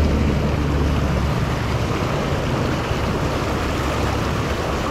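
Steady rush of flowing canal water, with low wind rumble on the microphone that eases about a second and a half in.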